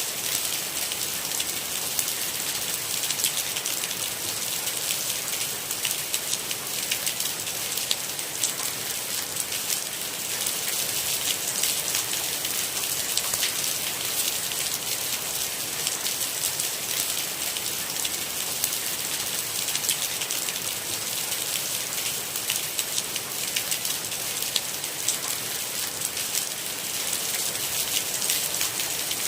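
Steady rain: a dense, even patter of drops hitting a surface over a high hiss, with no thunder.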